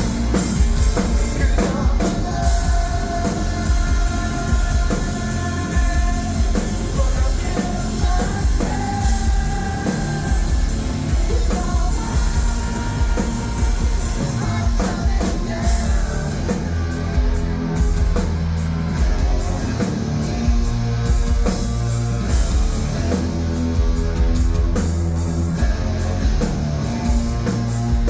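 Rock band playing live: singing over a drum kit and electric guitars, loud and continuous.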